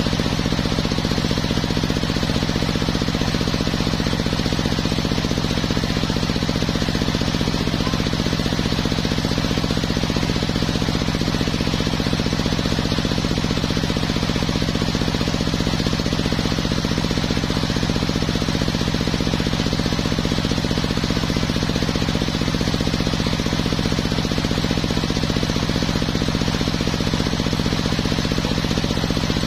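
Engine of a home-built circular sawmill running steadily, at an even speed and level with no rise or fall.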